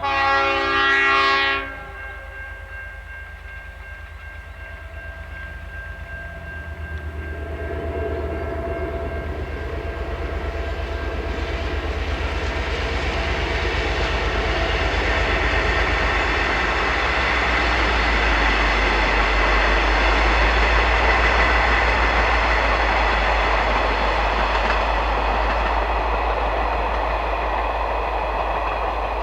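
A train horn sounds one short blast, then the train comes up to the level crossing and runs past, the rumble and clatter of its wheels on the rails building to its loudest over the second half.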